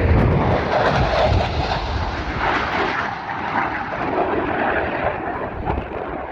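Airplane flying past: a loud engine noise that comes in suddenly, holds for about three seconds, then fades and dulls as it moves away.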